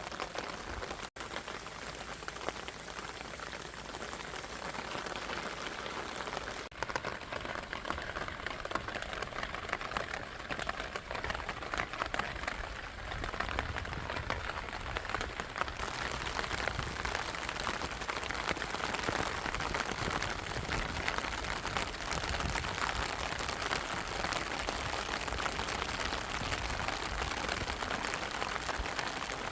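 Steady rain falling, a dense patter of drops, broken by a short gap about a second in.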